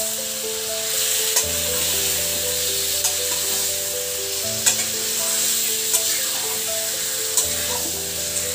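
Chicken, onions and masala sizzling in an iron kadai while a metal spatula stirs them, its edge clicking sharply against the pan every second or so.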